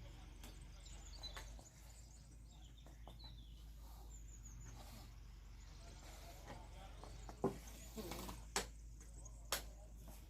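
Faint short bird chirps over a low steady hum, then three sharp knocks about a second apart near the end.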